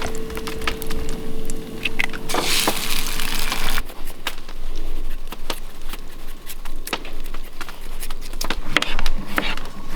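Food frying in bacon grease in a pan, with scattered crackles and clicks and a stronger hiss of sizzling a few seconds in. A steady tone sounds for about the first four seconds.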